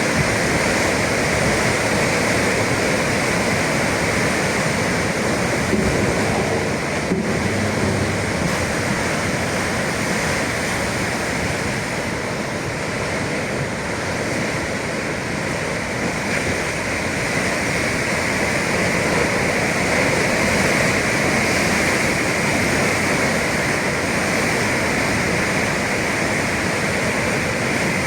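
Atlantic sea surf: waves breaking in a continuous rush of noise that eases a little in the middle and builds again.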